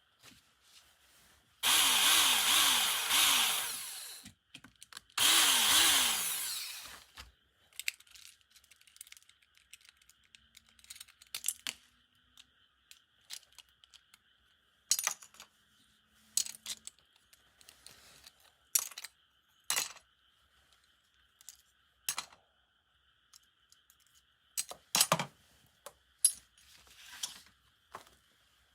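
A small electric drill runs in two bursts of about two seconds each, its pitch dipping and recovering as it bites: drilling out the rivets that hold a die-cast Tomica toy car together. After that come scattered light clicks and taps of small metal parts being handled.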